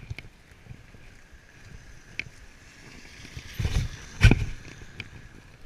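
Faint outdoor background noise with a few light clicks and two low muffled bumps, about three and a half and four and a quarter seconds in.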